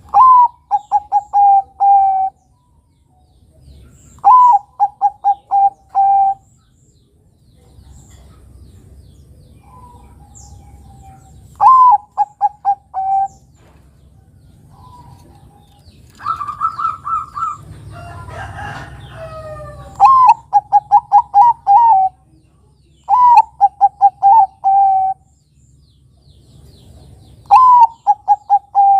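Zebra dove (perkutut) cooing: six times, each call a short upward-swooping note followed by a quick run of staccato coos lasting about two seconds. About two-thirds through comes a different, higher call and a brief mixed chirping stretch.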